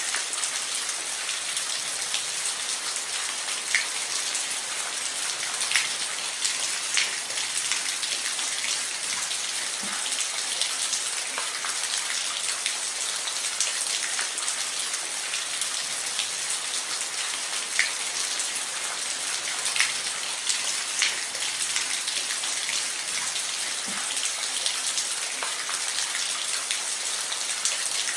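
Steady rain falling on a roof, a constant hiss with scattered sharper drip impacts.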